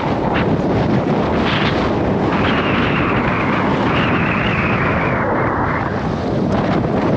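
Gale-force wind buffeting the microphone: a loud, continuous rumble and hiss, growing hissier for a few seconds in the middle.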